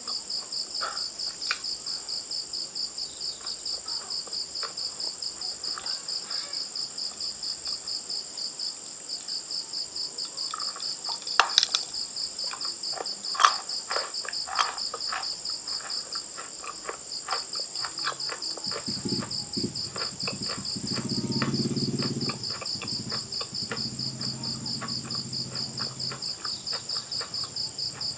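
Steady, rapid cricket-like insect trill in the background throughout, with scattered crisp crunching clicks of chewing, most of them in the middle. A low hum rises and fades in the second half.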